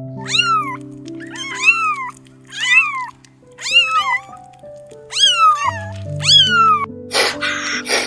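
Young kittens mewing: a string of high, thin mews, each rising then falling in pitch, over soft piano music. Near the end the mews give way to harsh, raspy calls from a different animal.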